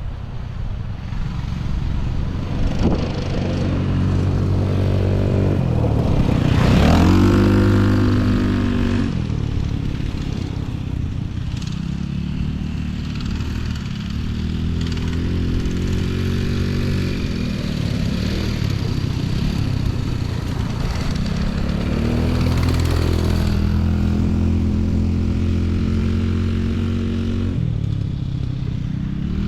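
Small off-road motorcycle engines running and revving up and down, their pitch rising and falling repeatedly. The loudest moment is about 7 s in, where one engine climbs in pitch and then drops off.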